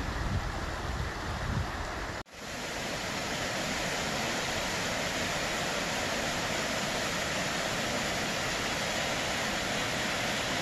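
Wind rumbling unevenly on the microphone for about two seconds. Then, after a brief cut, the steady, even rush of a waterfall.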